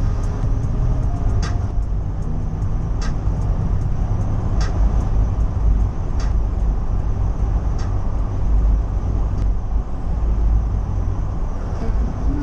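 Ford Ranger pickup truck driving: a steady, loud low engine and road rumble, with a short sharp click repeating about every second and a half.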